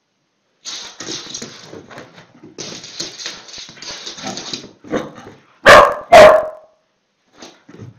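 A dog snuffling and vocalising in short broken bursts, then barking twice, loudly and close together, about three-quarters of the way through.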